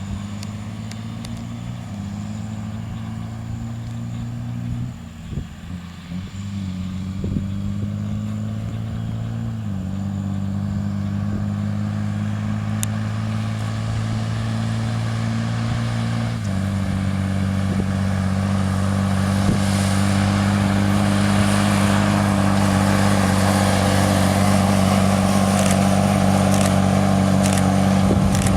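JCB 3230 Fastrac tractor's Cummins diesel engine running steadily, its note shifting pitch in several steps. It grows steadily louder over the second half, with rising rushing noise from the tyres and road.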